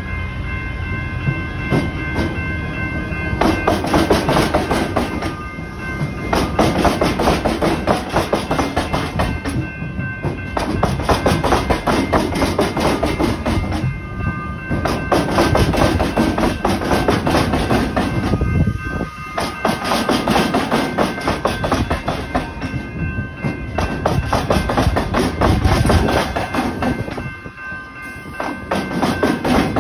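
Melbourne suburban electric train rolling through a level crossing, its wheels clattering heavily over the tram square where the tram tracks cross the rails, in repeated runs of knocks with brief lulls between them. Level-crossing bells ring steadily underneath.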